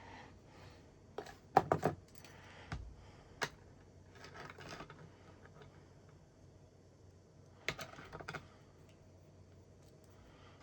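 Small plastic model-kit parts clicking and tapping as they are handled and set down on a work surface, in scattered clusters of sharp clicks with a brief soft rustle about four seconds in.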